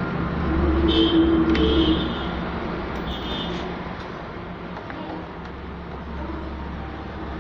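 Low rumble of a road vehicle going by, loudest in the first two seconds, with a brief high-pitched tone that sounds twice near the start and once more a little later.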